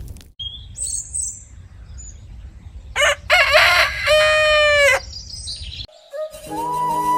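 A rooster crows once, a long call of about two seconds that drops in pitch at the end, with small birds chirping before it. Flute music begins near the end.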